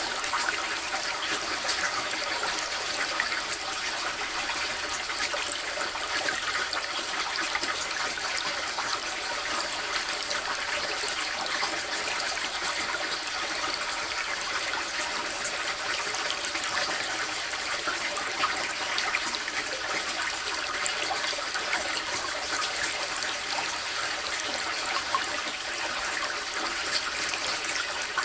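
Small waterfall splashing steadily: an even, hissy rush of falling water with little deep rumble.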